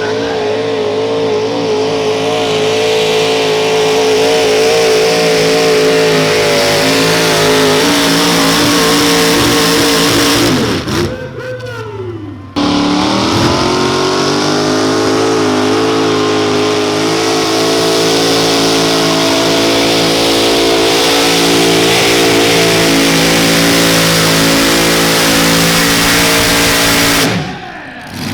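Mini modified pulling tractor engine screaming at full throttle under load, holding steady high revs, then the revs fall away about eleven seconds in. The full-throttle engine noise comes back suddenly and holds for about fifteen seconds, with the revs falling off again near the end as another pull finishes.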